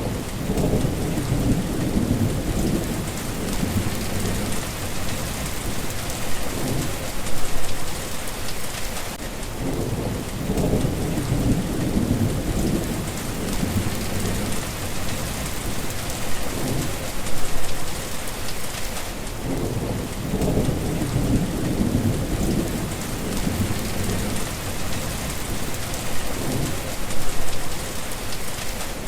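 Steady rain hissing with low rolling rumbles of thunder. The same stretch repeats about every ten seconds, each cycle with a brief louder swell.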